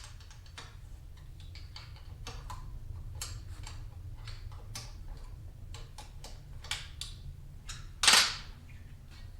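Irregular small clicks and taps of hand work on a stuck motorcycle part being taken apart, with one louder clunk about eight seconds in. A steady low hum runs underneath.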